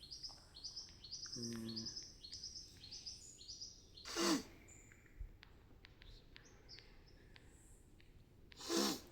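Birds calling: a quick run of short, sharply rising chirps over the first few seconds, then scattered thinner calls. Two short, loud breathy bursts cut in, about four seconds in and again near the end.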